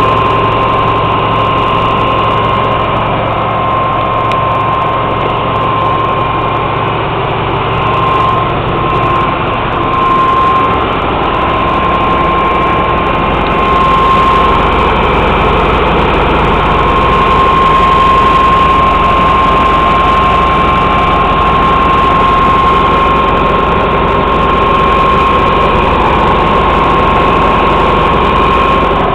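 Ford F500 truck's 300 cubic-inch inline-six engine running steadily, with a steady high-pitched whine over it.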